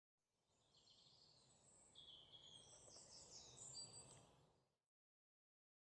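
Faint birds chirping, a scatter of high short calls and whistles over a soft hiss; it cuts off into silence about four and a half seconds in.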